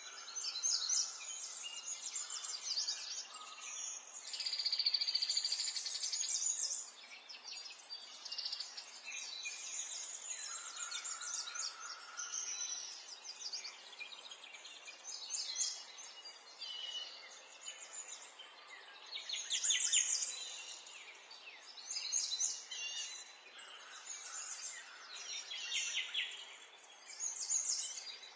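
Several songbirds singing and chirping over one another in quick, overlapping phrases and trills, over a faint steady background hiss.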